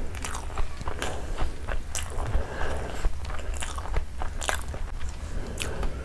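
A person chewing a large mouthful of vegetable pulao close to the microphone, with many irregular sharp mouth clicks.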